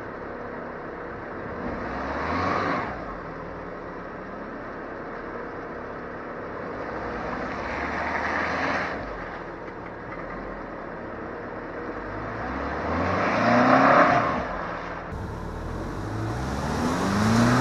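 A 1999 Subaru Forester's 2.5-litre flat-four engine revving in four surges, each climbing in pitch and dying back, the loudest about two-thirds of the way through, as the car works in a deep muddy water hole.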